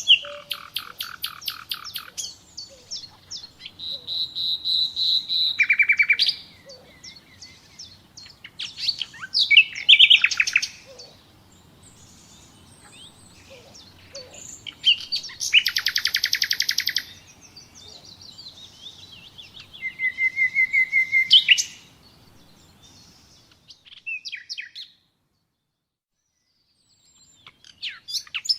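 Nightingale singing: a string of separate phrases a few seconds apart, each a rapid run of repeated notes or a short held whistle. A few fainter, shorter notes come near the end.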